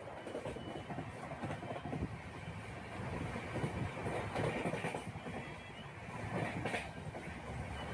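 Steady rumble and rattle of a moving vehicle heard from on board, with no break or change.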